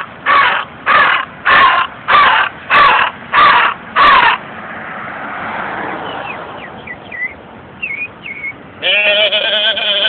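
A man imitating a bird: a rapid string of about eight loud, harsh squawks in the first four seconds, then a few short gliding chirps, and near the end a long wavering warble.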